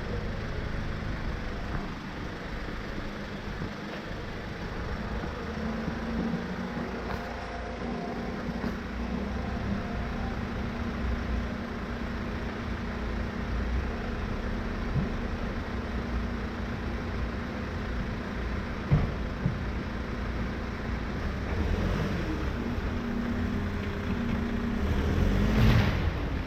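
Hyundai Porter light truck's engine running with a steady low drone. There is a single sharp knock about two-thirds of the way in, and the sound swells briefly near the end.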